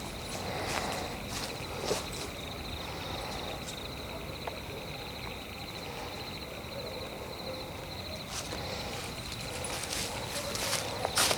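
Footsteps on the forest floor at night against a steady, fast-pulsing high insect trill. The steps pause through the middle and start again near the end, louder.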